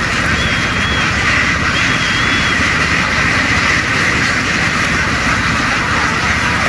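Boat engine running loudly and steadily, with two faint short high tones in the first few seconds.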